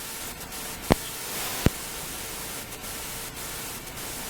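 Steady hiss of radio static on an open police radio channel, with two short sharp clicks, about one second in and again a little later.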